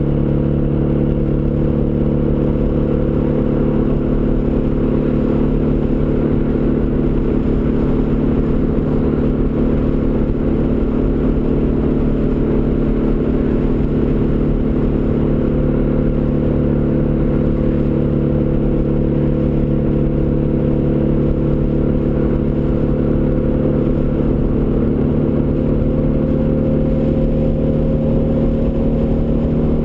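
Turbocharged Ford Escort ZX2's four-cylinder engine running steadily through a custom 3-inch side-exit exhaust. The pitch rises slightly near the end.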